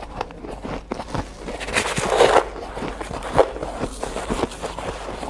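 Hard ice being bitten and chewed: a run of sharp crackling crunches, with a louder, denser crunch about two seconds in and another sharp one near the middle.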